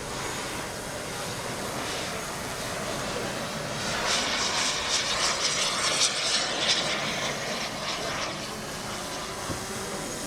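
Kingtech 26 kg-thrust turbine of a 1:5 scale radio-controlled F-16 jet in flight: a steady rushing jet noise that swells about four seconds in, loudest around six to seven seconds, and falls back near eight and a half seconds as the model makes a pass.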